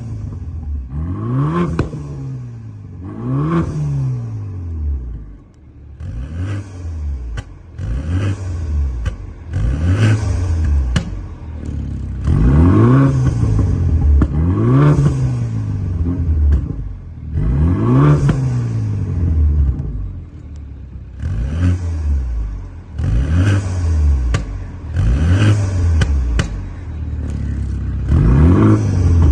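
BMW G20 3 Series engine revved repeatedly through an aftermarket valved exhaust with the stock downpipe: about a dozen quick blips, each pitch rising then falling back, with scattered sharp pops.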